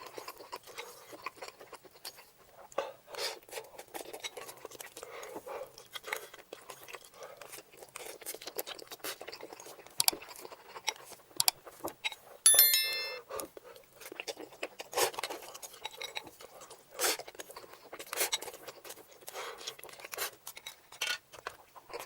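Close-miked eating of noodles: irregular wet chewing, smacking and slurping clicks. About twelve and a half seconds in comes one brief bright ringing clink, the loudest sound.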